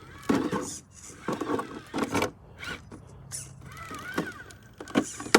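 Scale RC rock crawler (Axial SCX10 III) working over rocks: irregular knocks, clacks and scrapes of its tyres and chassis against rock, with a brief whine about four seconds in.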